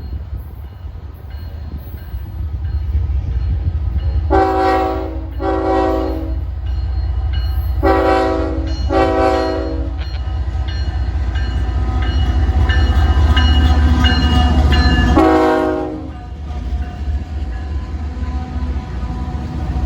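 Freight locomotive air horn sounding five blasts of just under a second each: two, then two more, then a single one. Under them is the low rumble of the diesel locomotives, which builds to its loudest just before the last blast as the train comes close.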